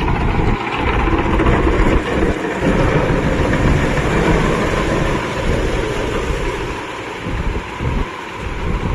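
Kubota MU5502 4WD tractor's diesel engine running, loud and steady, mixed with an irregular, gusty rumbling that eases a little near the end.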